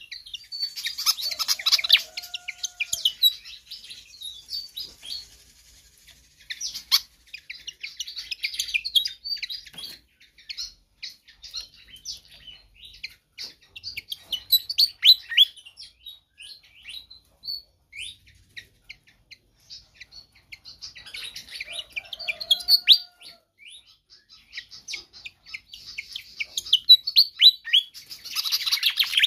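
Malaysian pied fantail singing energetically: runs of rapid, high, squeaky chirping notes in phrases of a few seconds, with short pauses between them.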